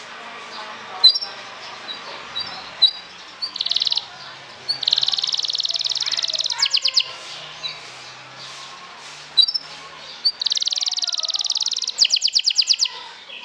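Domestic canary singing: sharp high chirps, then a long, very fast trill about five seconds in, ending in a quick run of separate notes. The same trill-and-run phrase comes again near the end.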